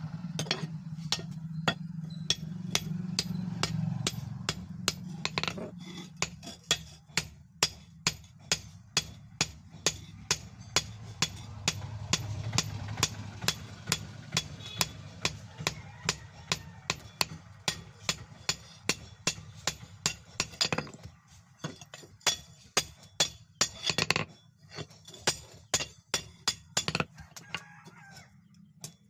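Hammer blows on steel, the leaf spring being forged into a knife blade: sharp, regular strikes about two to three a second, pausing briefly a few times. A low hum runs underneath.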